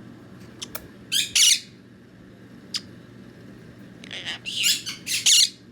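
Quaker parrot squawking harshly: one short burst about a second in and a longer run of squawks near the end, with a few sharp clicks between.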